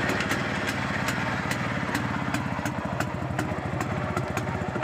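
Yezdi CL2 250 cc two-stroke single-cylinder motorcycle engine running steadily at idle, with a regular knock about two to three times a second. The owner takes the crank noise in this engine for worn crankshaft main bearings.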